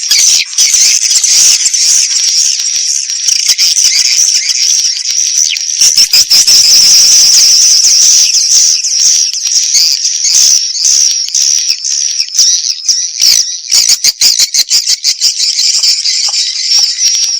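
Dense, continuous high-pitched twittering and chirping of swiftlets, with many quick clicks running through it. This is a swiftlet 'call and roost' lure sound, the kind played in swiftlet houses to draw the birds in and get them to roost.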